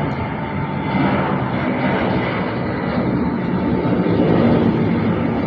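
Airplane engines running at takeoff power: a loud, steady rushing noise with a faint held hum underneath.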